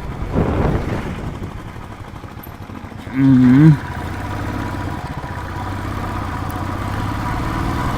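Motorcycle engine and road noise while riding, with a steady hum that slowly grows louder over the second half. About three seconds in there is a brief loud pitched sound with a wavering pitch.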